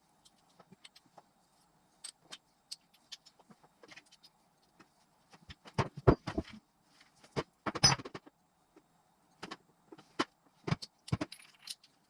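Small metal engine parts and hand tools clinking and clanking as they are handled during motorcycle engine assembly, in irregular scattered taps with louder knocks about six and eight seconds in.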